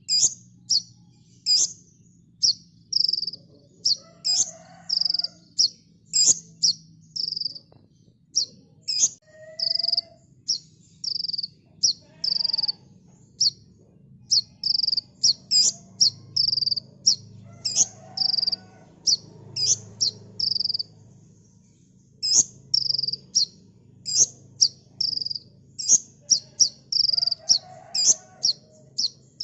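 Kolibri ninja sunbird singing a fast, tight series of sharp high chirps and whistled notes, about two a second, with a brief pause around two-thirds of the way through. A faint low hum sits underneath.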